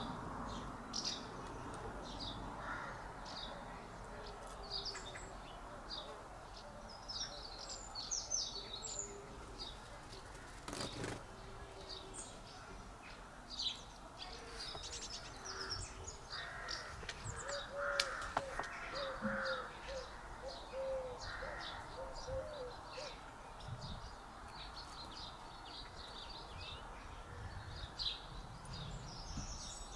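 Garden birds chirping and calling: many short, high chirps throughout, with a run of lower, repeated call notes in the middle.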